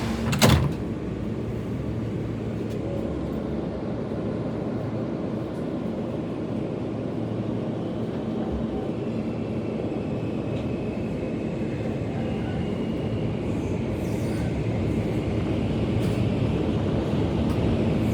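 New York City subway car running between stations, heard from inside the car: a steady rumble of wheels on rails, with one sharp click about half a second in.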